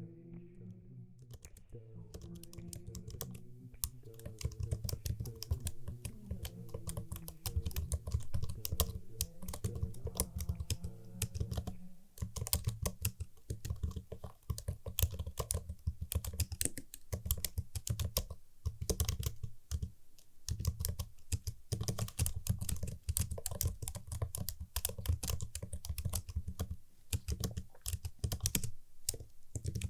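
Fast, continuous typing on a computer keyboard: a dense run of crisp key clicks that starts about a second in.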